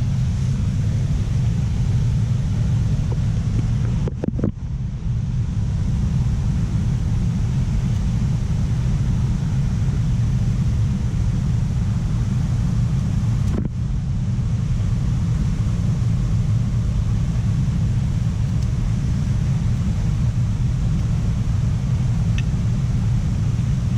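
Steady low rumble of a waterfall, with two brief dips in level.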